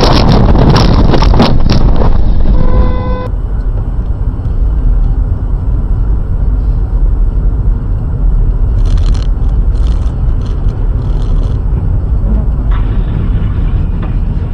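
Loud, rough vehicle noise with sharp clattering knocks, then a vehicle horn sounding briefly. Near the start it cuts off abruptly and gives way to a steady low road and engine rumble, with a few short hisses partway through.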